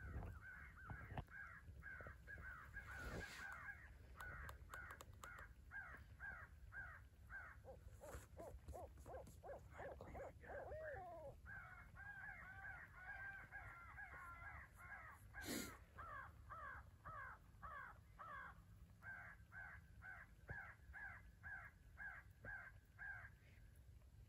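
Crows cawing faintly in a continuous, fast string of harsh caws, several a second, with several calls overlapping in the middle. A sharp click cuts through about fifteen seconds in.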